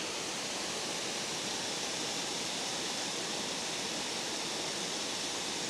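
Steady rush of water pouring through a spillway, an even hiss with no breaks or changes.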